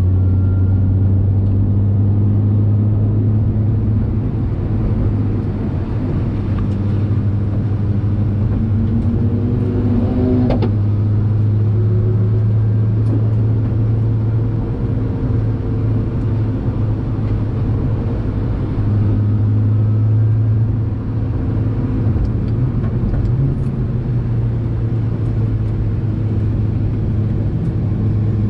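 Nissan GT-R R35's twin-turbo V6 heard from inside the cabin while the car is driven hard on a race track: a steady low drone that dips briefly now and then.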